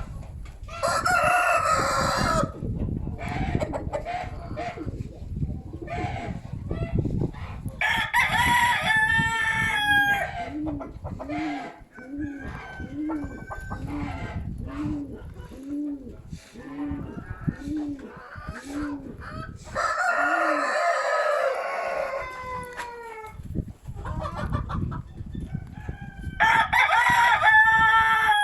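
A rooster crowing four times, each crow about two seconds long, with wind buffeting the microphone throughout. Between the second and third crows comes a run of short low calls, about one a second.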